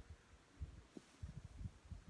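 Faint low rumble with soft, irregular thumps, with no other sound standing out.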